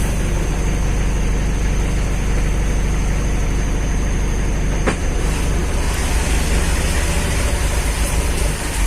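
Heavy vehicle engine running steadily with a low rumble, and one sharp click about five seconds in.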